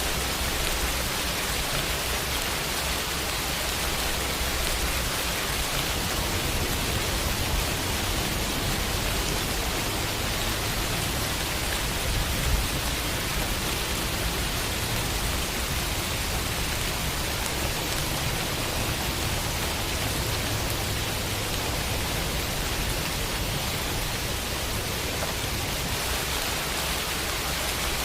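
Steady rain falling on a window, an even hiss of drops.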